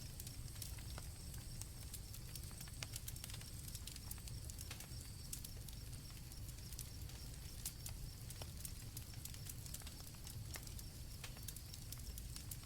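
Campfire crackling with irregular sharp pops over a low steady rumble, with crickets chirping as a thin high steady trill that fades out about five seconds in.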